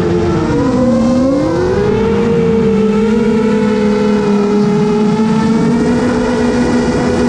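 FPV drone's brushless motors and propellers whining in flight. The pitch drops about a second in as the throttle eases, climbs back and then holds steady, over a low rumble of wind.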